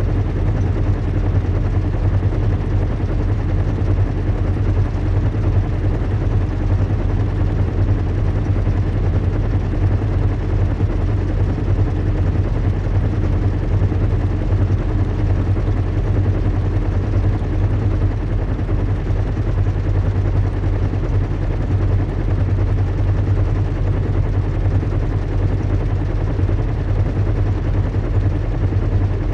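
Recreated sound of a zeppelin airship in flight: a steady low engine drone with an even hiss over it.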